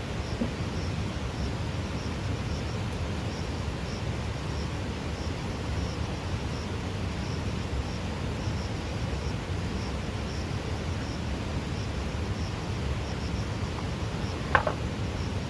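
Steady outdoor background with a low rumble and faint insect chirps repeating about twice a second, broken by a single sharp knock near the end.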